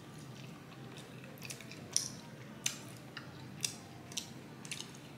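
A person chewing a mouthful of fufu and egusi soup with goat meat, with a series of short wet smacks and clicks, about one every half second from about a second and a half in.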